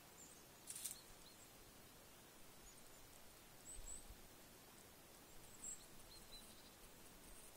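Near silence: a quiet outdoor hush with a few faint, thin, high-pitched chirps from small birds here and there, and one short sharp tick about a second in.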